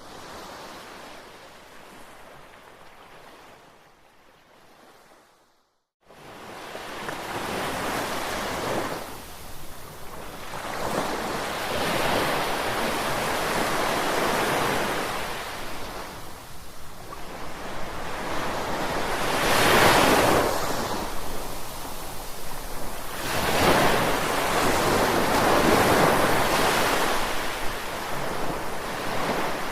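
Sea waves breaking and washing up the shore, surging louder and falling back every few seconds. It starts quieter and fades into a brief dropout about six seconds in, then comes back louder.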